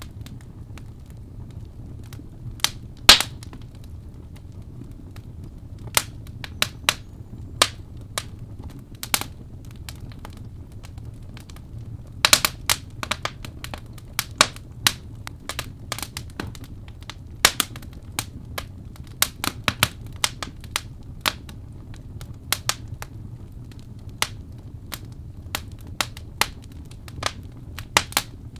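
Wood fire crackling: irregular sharp pops and snaps over a steady low rumble, with a loud pop about three seconds in and a quick run of snaps about twelve seconds in.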